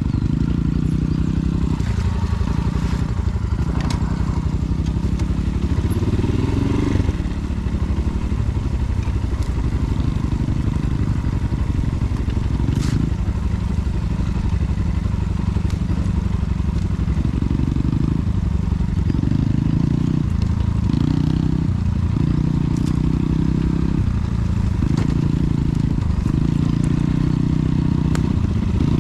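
Enduro dirt bike engine running as it is ridden, its revs stepping up and down every second or two, with a few sharp clicks scattered through.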